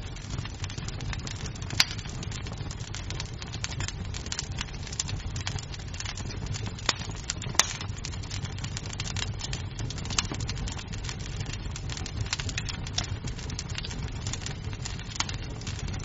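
Wood fire crackling in a fireplace: a steady low rumble of flames under a stream of small snaps, with louder pops about two seconds in and near the middle.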